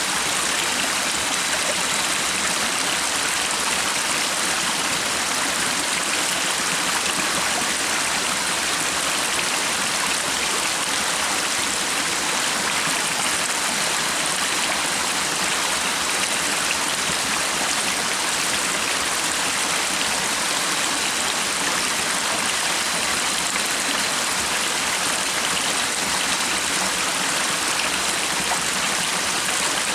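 Stream water rushing steadily, an even, unbroken hiss of flowing water.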